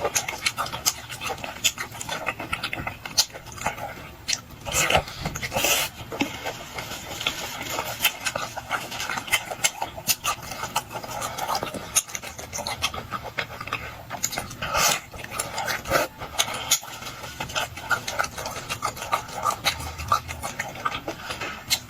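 Close-up eating sounds: a person chewing sea snail meat, with many short wet mouth clicks and smacks and breathing between bites.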